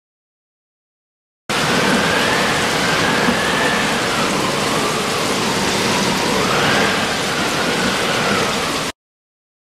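Heavy rain sound effect: a dense, steady hiss that starts abruptly about a second and a half in and cuts off abruptly near the end, with a faint tone slowly rising and falling through it.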